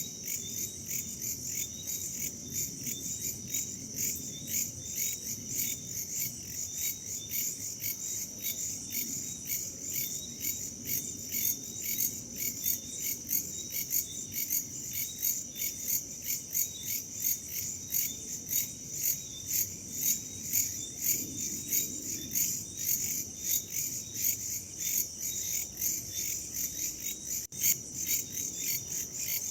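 Chorus of crickets and other insects chirping in rapid, steady pulses, over a soft low rush of wind. The sound cuts out for an instant near the end.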